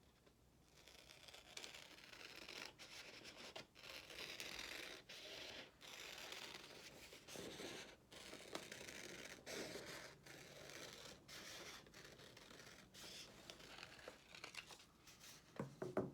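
Scissors cutting a half circle out of construction paper: a run of faint snips and paper rustling, broken by short pauses between cuts.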